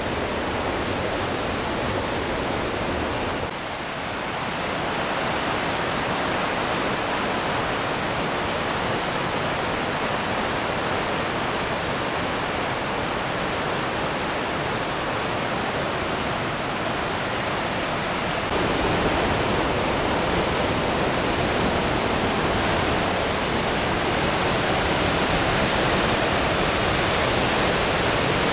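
Goðafoss waterfall: a steady, dense rush of falling water. The sound changes abruptly twice, dipping briefly about three seconds in and growing a little louder about two-thirds of the way through.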